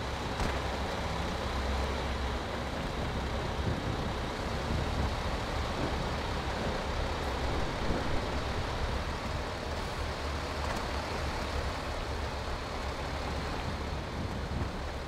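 Heavy military truck running steadily, a deep, even engine and driving noise.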